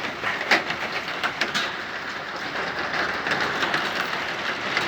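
Heavy rain pouring down in a steady hiss, with a few sharp taps of drops striking a hard surface in the first couple of seconds.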